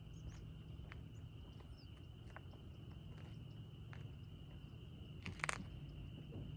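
Quiet outdoor ambience: a steady high-pitched whine like an insect drone over a low steady rumble, with a few faint clicks and a sharper click about five seconds in.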